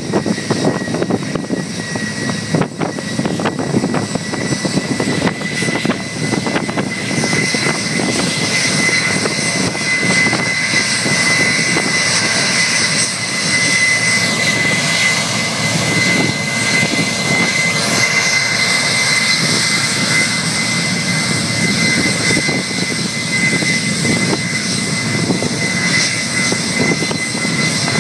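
Boeing 757's turbofan engines running at high power in a ground run-up after maintenance: a steady jet-engine noise with a high whine on top, building over the first several seconds and then holding.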